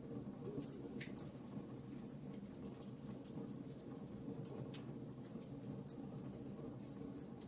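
Wood fire burning in a fireplace: a soft low rumble of flame with frequent small, irregular crackles and pops.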